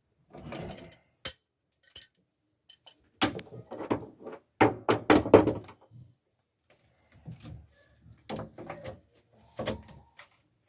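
Irregular knocks, sharp clicks and clatter of tools and parts being handled during repair work, busiest in the middle and sparser near the end.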